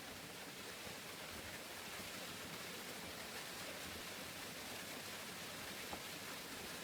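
Steady rain falling, an even hiss with a few faint taps of drops.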